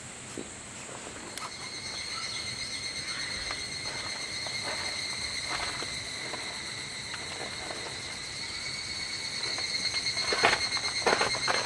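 Insects chirring steadily in a high, pulsing drone that comes in about a second in, with a few knocks and rustles near the end.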